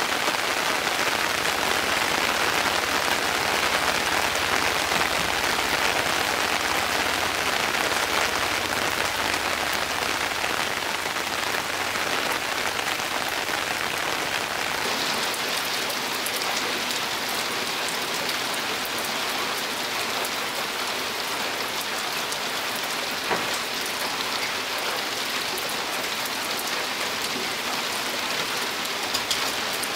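Steady rain falling, a dense even patter of drops that eases slightly about halfway through.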